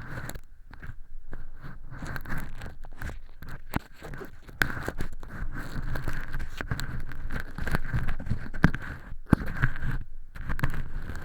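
Earpick scraping inside a silicone ear model's canal, lifting thin flakes of fake earwax: a dense, irregular scratching and crackling with sharp clicks.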